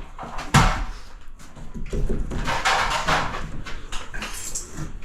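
Cement sheet being handled and knocked against the wall framing. There is a thump about half a second in, then scraping knocks.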